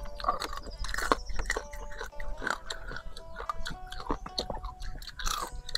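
Crunching and chewing of crispy deep-fried baby crabs eaten shell and all: an irregular run of sharp crunches close to the mouth.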